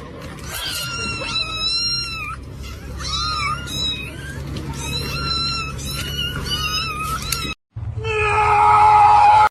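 A cat meowing over and over in high, drawn-out calls. The sound cuts out about three-quarters of the way through, and a different, louder sound builds toward the end.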